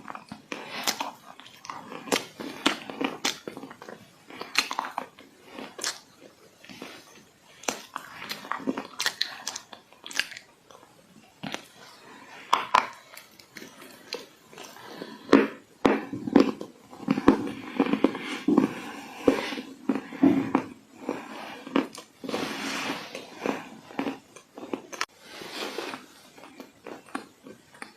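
Dry clay crunching and crumbling: many irregular crisp cracks, closer together and denser between about 15 and 21 s.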